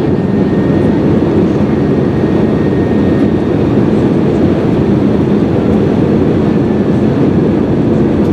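Steady cabin noise inside an Airbus A320 airliner during its descent: an even, low rumble of engine and airflow noise.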